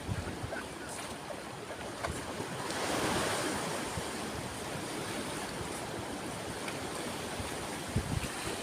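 Sea waves washing onto a shore in a steady hiss, with one wave surging up louder about three seconds in. Brief low rumbles of wind on the microphone come at the start and near the end.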